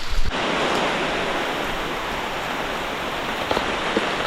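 Heavy rain pouring down in the forest: a dense, steady hiss that starts abruptly a moment in, with a few single drops striking close by.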